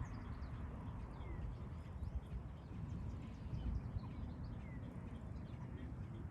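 Wind rumbling on the microphone, with many faint short chirps scattered throughout from small animals, typical of an active prairie dog colony.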